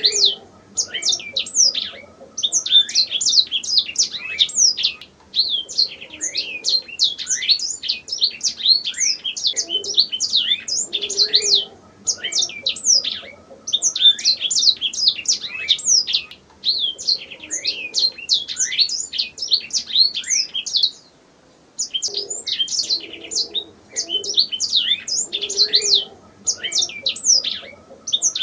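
Domestic canary singing: long runs of fast, high chirps and rolling trills, phrase after phrase with short breaks between them and one longer pause about three quarters through.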